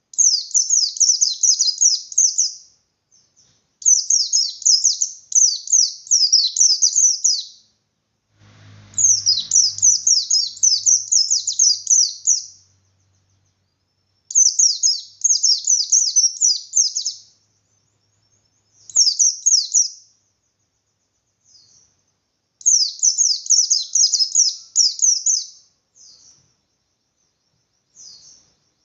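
Pleci (white-eye, Zosterops) singing its full, fast, high twittering song in repeated bursts of two to four seconds with short pauses between them, and a few single short calls in the gaps.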